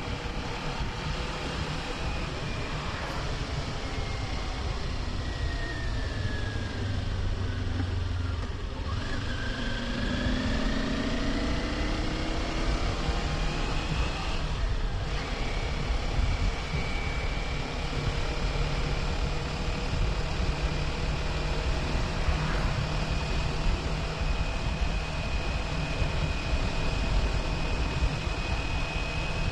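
Kawasaki Ninja 400 parallel-twin engine running under way, with a dense rush of wind and road noise. The engine note falls over a few seconds as the bike slows, then climbs as it accelerates again, and holds steady for the rest of the time.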